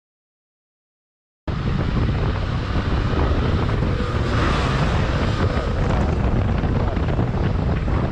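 Dead silence at first, then, from about a second and a half in, a steady rush of wind on the microphone over the low rumble of a motorcycle riding at speed.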